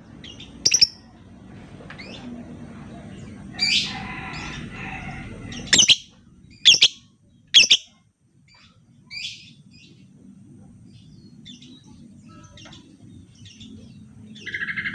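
Lovebird giving short, shrill single chirps at irregular intervals, with a longer harsh, chattering call about four seconds in.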